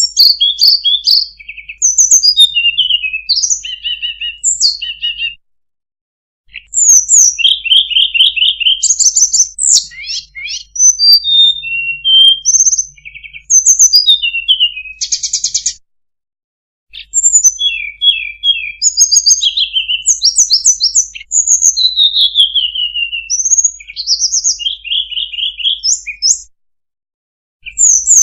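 Lure recording of a small songbird known to Indonesian bird-keepers as sulingan or tledekan, singing fast, varied phrases of high chirps, trills and down-slurred notes. The song comes in runs of about ten seconds, each cut off by about a second of total silence, as in a looped lure track.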